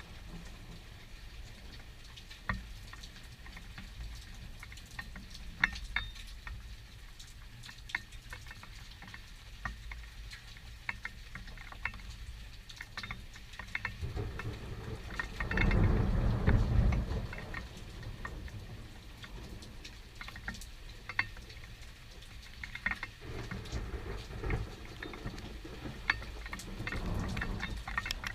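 Rain pattering in a thunderstorm, with scattered sharp drop impacts close by. A low rumble swells for a few seconds about halfway through.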